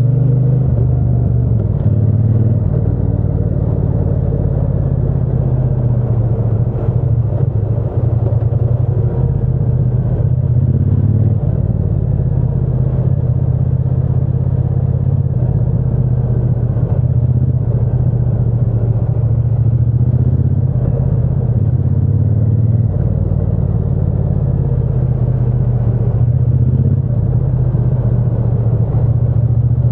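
Triumph Bonneville T120's parallel-twin engine and exhaust running steadily under way, a deep even rumble with only small changes in pitch.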